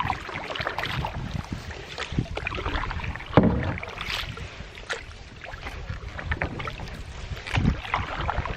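Canoe paddling on calm water: paddles dipping and splashing in an irregular rhythm, with a sharp knock about three and a half seconds in.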